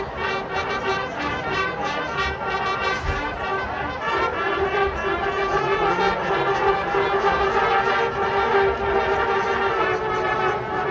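Marching band brass section playing: quick repeated notes at first, then about four seconds in it moves into long held chords that swell slightly.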